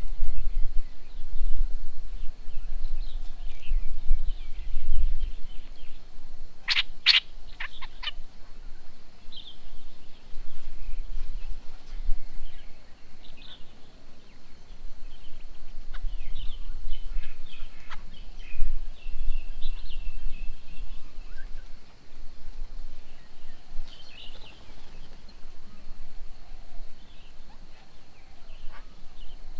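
Several small birds calling and chirping on and around a garden bird table, with a loud run of about five sharp calls about seven seconds in. A steady low rumble sits underneath.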